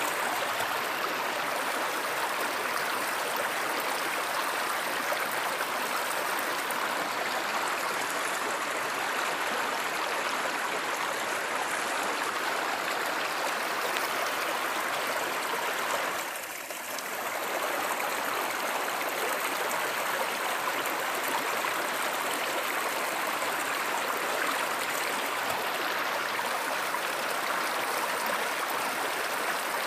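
A stream's water flowing steadily, with a brief dip in level a little past halfway.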